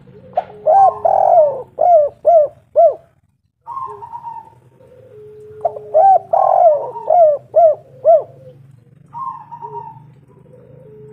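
Spotted dove singing: two phrases, each a rolling coo followed by three short coos, about five seconds apart, with softer coos in between.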